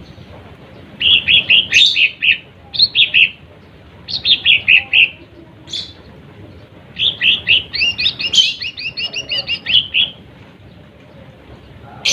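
Lesser green leafbird (cucak ijo mini) singing: several short bursts of quick, repeated chirping notes, then a longer rapid run of notes.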